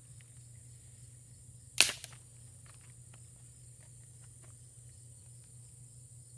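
One sharp rasping strike of a fire striker, about two seconds in, followed at once by a smaller second strike, over a steady high chirring of crickets.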